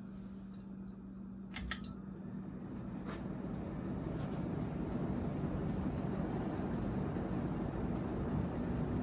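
1990 Casablanca Lady Delta ceiling fan switched up to high speed: a couple of sharp clicks about a second and a half in, then its motor hum and the rush of air from the blades build over a few seconds and settle into a steady, louder whoosh at full speed.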